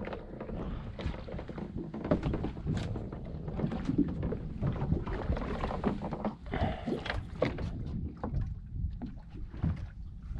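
Water slapping and splashing against the hull of a small motor boat, with many irregular splashes and knocks over a low wash of water noise.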